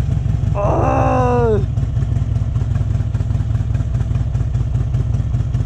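2008 Harley-Davidson Electra Glide's V-twin engine running steadily through Vance & Hines exhaust pipes, a deep even rumble with no revving.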